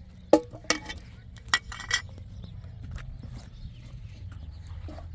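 A few sharp knocks and clatters in quick succession in the first two seconds, over a steady low rumble.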